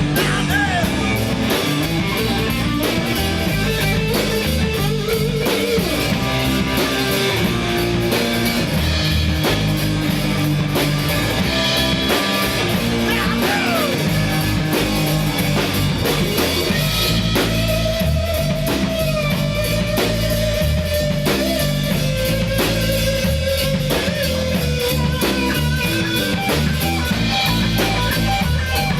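Full-band rock music from a three-piece jam band: guitar, bass and drum kit playing a song at a steady, full level.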